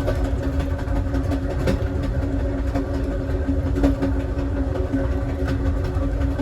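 Passenger train car running along the track: a steady low rumble of wheels on rail with a constant hum, broken by occasional sharp clicks and knocks from the running gear.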